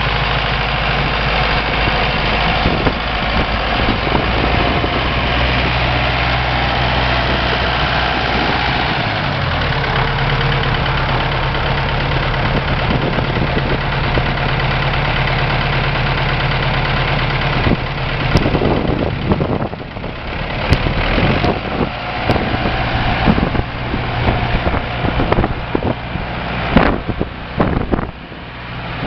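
1993 Ursus 4512 tractor's diesel engine idling steadily, its note dropping slightly about nine seconds in. From about eighteen seconds the steady engine note gives way to uneven rushing noise with scattered knocks.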